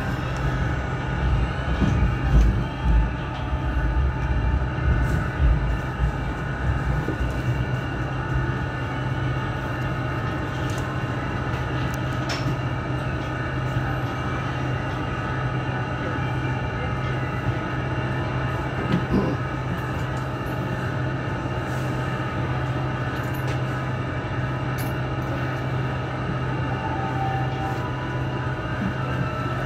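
Hong Kong Light Rail Phase I car heard from inside while running: a steady low hum with several steady whining tones above it and the rumble of wheels on track, with uneven low thumps in the first few seconds that then settle.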